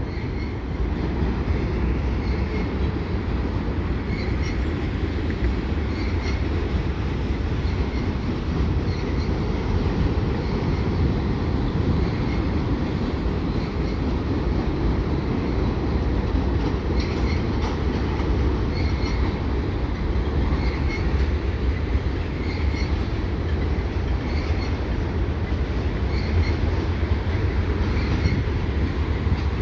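Freight train rolling steadily past: a continuous rumble of wheels on rail with faint, repeated clicks running through it.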